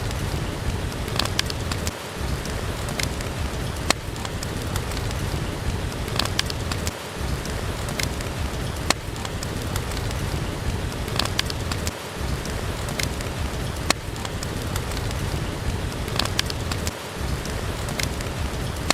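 Steady rain with a low rumble and scattered sharp pops and clicks, like a wood fire crackling in a fireplace.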